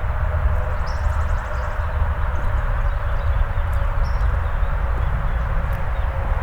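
A steady mechanical drone with a deep rumble and a held hum, like a distant engine. A bird chirps briefly twice.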